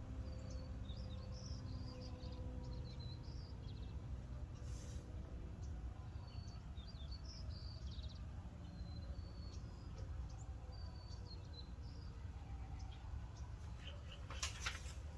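Small birds chirping on and off in the background over a steady low rumble, with a brief clatter of handling near the end.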